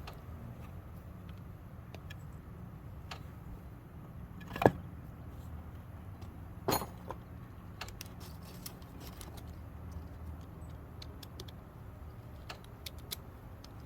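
A few sharp metallic clicks and knocks from tools and hardware being handled, the loudest about four and a half seconds in and another about two seconds later, then a few light ticks near the end, over a steady low background rumble.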